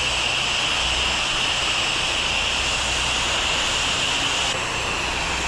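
High-pressure water spray from a pressure-washer wand: a steady loud hiss over the low hum of the machine, the top end dropping a little near the end as the spray shifts.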